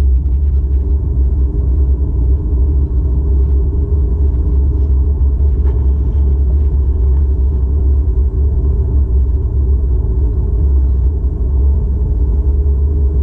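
Steady, deep rumble of a car's road and engine noise heard from inside the cabin while driving.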